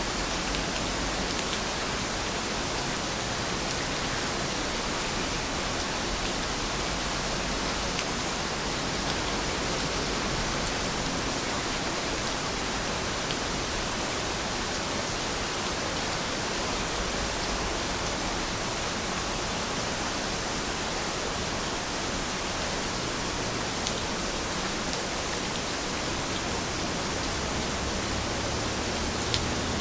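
Steady, even rainfall, a continuous hiss with faint scattered drop ticks.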